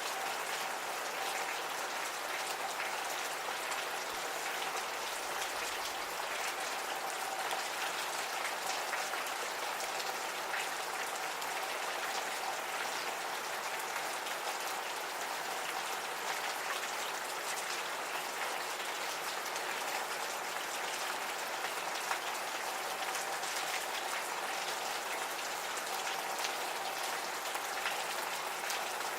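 Gentle, steady rain falling, with many small drops pattering and dripping on surfaces.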